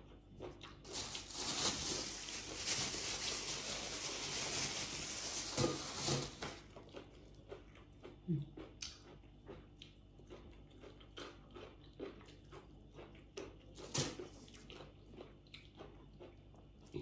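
Close-up eating sounds: dense crunching for the first several seconds, then softer chewing with scattered short clicks and crackles.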